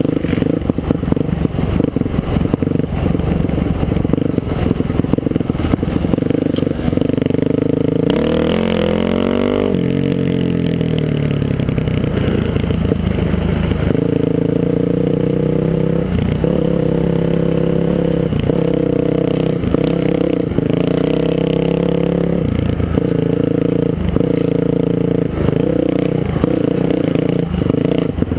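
Dirt bike engine running under way. The revs drop and then climb again about eight to ten seconds in, with short knocks now and then through the second half.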